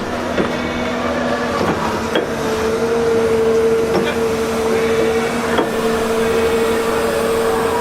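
A machine running with a steady whine that grows stronger about two and a half seconds in, with a few light clicks.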